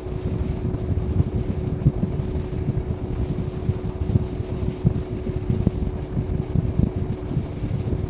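A boat's motor running steadily, a constant drone under heavy wind buffeting on the microphone.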